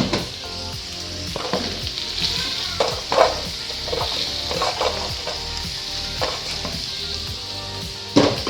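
Food sizzling steadily in a hot pan while being stir-fried, with a utensil scraping and knocking against the pan every second or so, loudest about three seconds in and again near the end.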